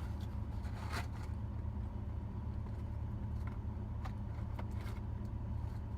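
Steady low hum of a truck engine idling, heard from inside the cab, with a few faint clicks over it.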